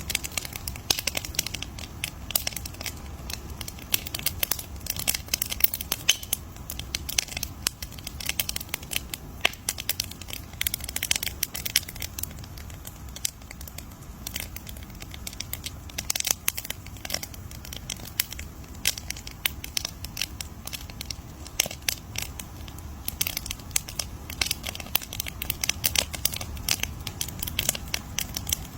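Campfire crackling: a dense, irregular stream of sharp pops and snaps from burning wood over a low, steady rumble of the flames.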